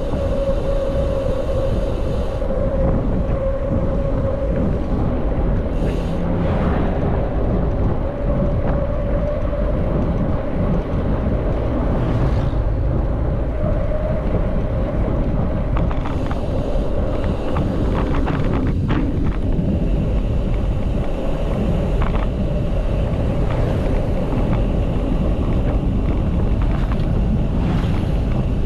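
Wind noise on the microphone with tyre and road noise from a mountain bike being ridden, a steady hum running under it.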